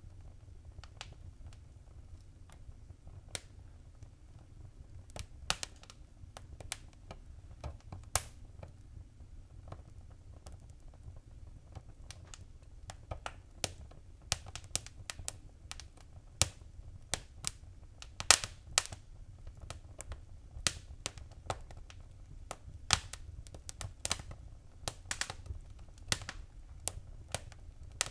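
Wood fire crackling in a fireplace: irregular sharp pops and snaps over a steady low rumble. The pops come thicker and louder in the second half.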